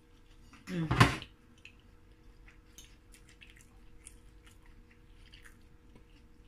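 A person chewing a mouthful of food, with faint scattered mouth clicks, and a short vocal sound of the voice about a second in; a fork touches the plate now and then.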